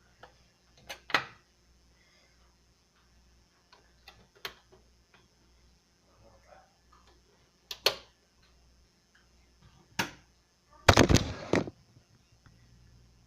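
Scattered sharp clicks and knocks of handling, with a louder clatter of several knocks about eleven seconds in.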